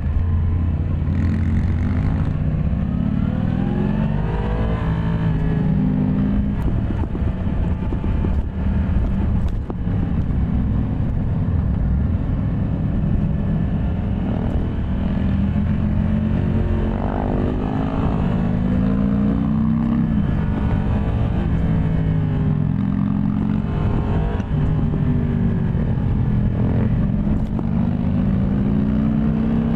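Yamaha MT-10 SP's crossplane inline-four engine under way, its pitch climbing and falling again several times as the rider accelerates and eases off, with the strongest climbs a few seconds in, around the middle, and near the end.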